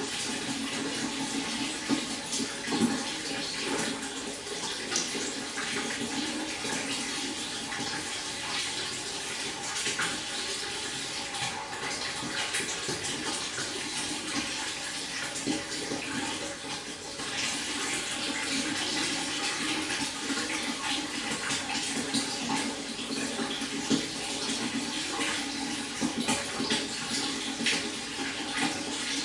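A babbling stream: water flowing steadily, a continuous rush flecked with many small splashes and trickles.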